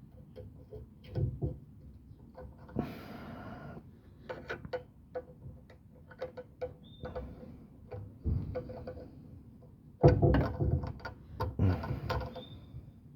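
Hand tools clicking and knocking on metal as a nut is worked onto an exhaust hanger fitting under a car. Irregular small clicks, a scraping rustle about three seconds in, and a louder run of knocks near the end.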